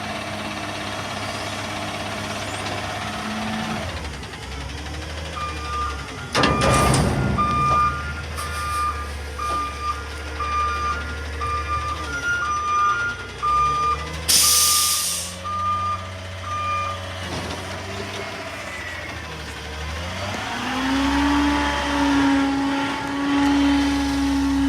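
Garbage truck's diesel engine running while its back-up alarm beeps in an even series for about twelve seconds as it reverses, with a loud hiss of air partway through. Near the end the engine note rises and holds as the truck pulls away.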